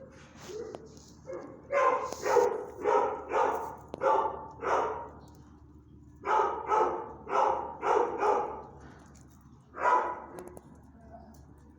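A dog barking: a quick run of barks, about two a second, then a second run after a short pause, and a single bark near the end.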